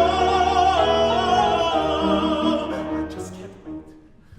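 A singer in full, operatic-style voice holds the song's final note with vibrato over piano accompaniment. The note ends about three seconds in and the sound dies away.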